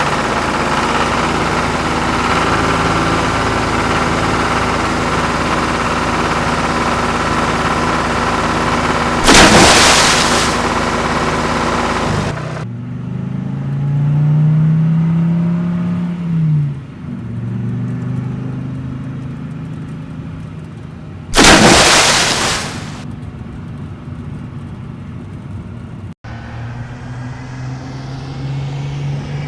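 Engine sounds of trucks or tractors running steadily, with one engine revving up and back down midway. Two loud, noisy bursts, each about a second long, break in, one before the middle and one later on.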